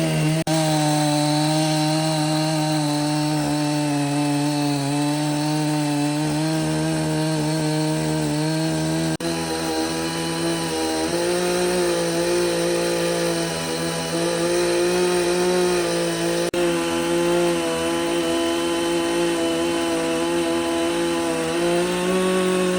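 A motor-driven saw running steadily while cutting wood, its pitch sagging and recovering slightly under load, with a few sudden breaks where the sound jumps.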